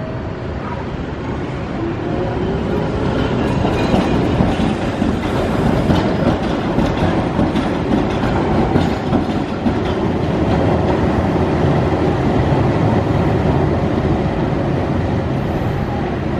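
Keihan Otsu Line electric train rolling through a street-level track junction, its wheels rumbling and clattering over the points and crossing rails. It grows louder about two seconds in and stays loud through the middle as it passes close.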